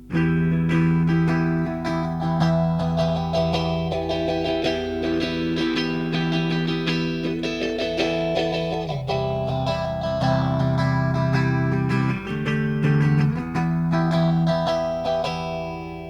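Electric guitar strumming sustained chords through a phaser pedal, the phase sweep slowly moving up and down through the sound. The chord changes a few times.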